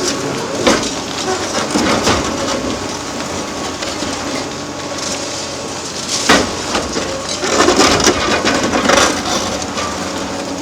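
Demolition excavator running while reinforced concrete is crushed and broken. There are sharp cracks early on, a loud crack about six seconds in, and a longer run of crunching and breaking shortly after.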